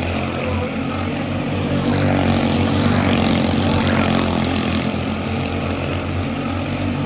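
Quarter midget race car's small single-cylinder engine running steadily at speed.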